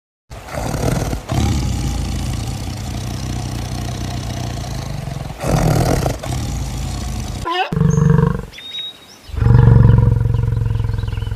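A large animal roaring: one long, deep, rough roar lasting about seven seconds, then two shorter, deeper calls with a clear pitch near the end.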